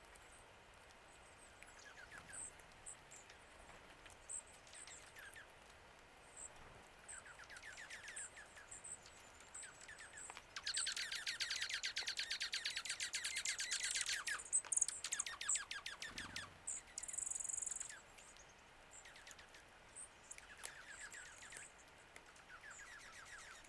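Small songbirds calling: scattered short, high chirps, and a loud rapid trill lasting about three and a half seconds near the middle.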